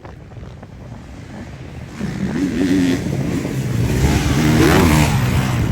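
Motocross motorcycle engines revving on the track, louder from about two seconds in, the pitch rising and falling as the riders work the throttle.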